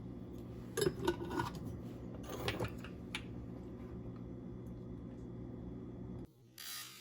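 A few light clinks of kitchen utensils against dishes, over a steady low hum that cuts off abruptly near the end.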